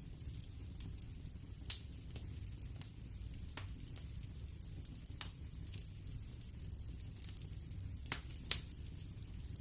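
Wood fire burning in a fireplace: a steady low rumble with scattered crackles and sharp pops, the loudest pops about two seconds in and about a second before the end.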